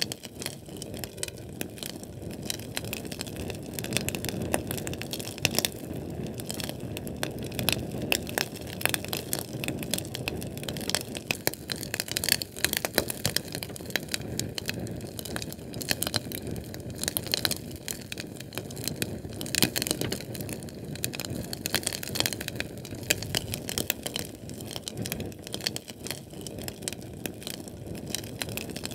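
Fire burning with a continuous low roar, dense irregular crackling and scattered louder pops.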